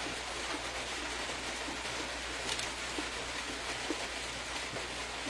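Steady background hiss with a few faint, scattered clicks.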